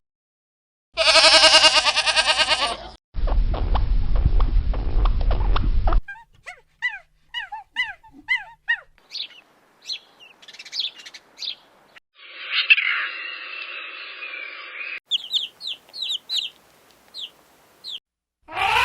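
A run of short animal clips. First comes a loud wavering animal call, then a low rough rumbling stretch. After that come many quick chirping bird calls, about three a second, broken for a few seconds by a hissy noise.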